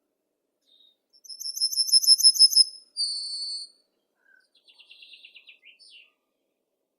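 A songbird singing one phrase: a quick, high trill that swells in loudness, then a short buzzy note, then a fainter, lower trill. The background is otherwise silent.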